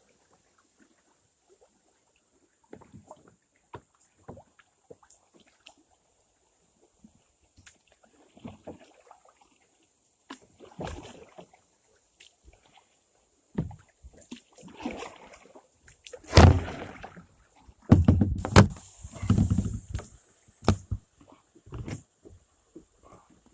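Kayak on the water: scattered small knocks of the paddle and gear against the plastic hull, then water splashing and several loud thumps and sloshing about two-thirds in, as the boat-mounted camera tips into the water.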